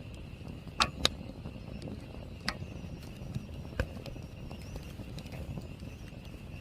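Wood campfire crackling, with a few sharp irregular pops, two close together about a second in, over a faint steady high hum.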